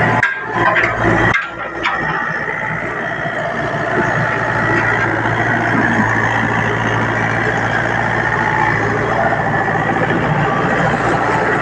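Diesel engine of a Sunward SWE50 mini excavator running steadily after its battery relay was replaced. The first second and a half is uneven with brief breaks before the engine settles into a steady run.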